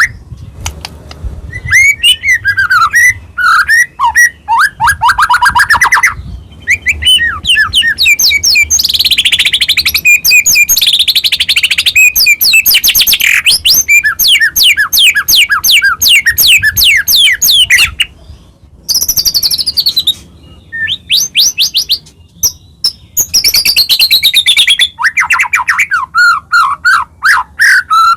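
White-rumped shama singing loudly: phrases of rapid repeated notes and whistled up-and-down glides, separated by short pauses.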